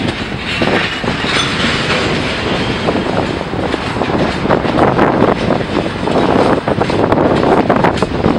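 Freight railcars rolling past during yard switching, their wheels clicking irregularly over rail joints over a steady rumble.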